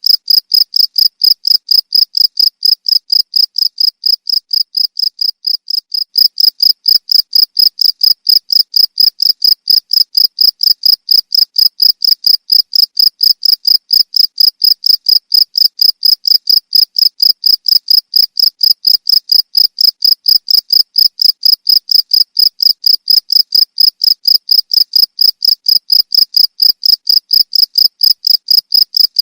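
Cricket chirping: a loud, even, unbroken train of high-pitched chirps, several a second, briefly a little softer about four to six seconds in.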